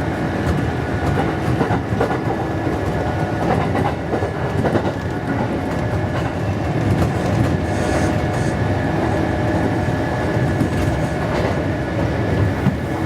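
Kintetsu electric train running along the track, a steady hum over continuous running noise.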